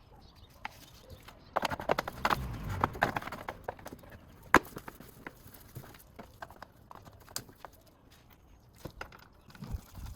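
Plastic engine-bay parts being handled and refitted by hand: a flurry of knocks and rattling about two seconds in, one sharp click a little later, then scattered light clicks.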